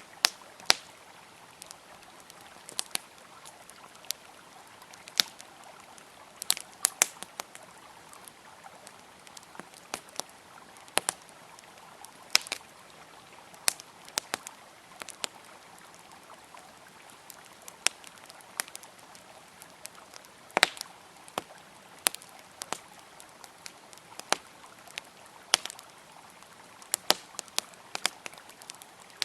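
Wood campfire crackling, with irregular sharp pops and snaps, some much louder than others. Underneath is the steady rush of a flowing river.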